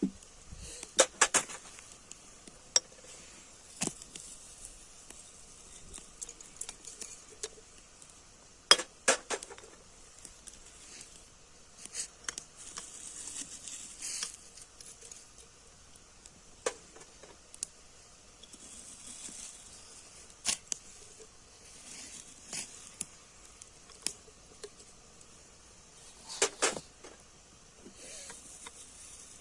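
Cookware and utensils being handled during outdoor cooking. There are scattered sharp clinks and knocks, a dozen or so spread irregularly, the loudest a few about 9 seconds in and again near the end, with little sound between them.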